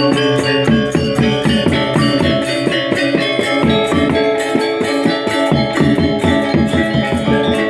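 Balinese gamelan playing: bronze metallophones and gongs struck in a dense run of rapid, ringing notes over drumming.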